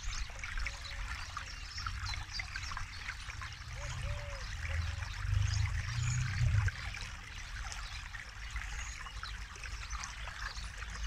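Forest river flowing and babbling over stones, a dense trickling and splashing with small gurgles. A low rumble swells louder about four seconds in and drops back after about six and a half seconds.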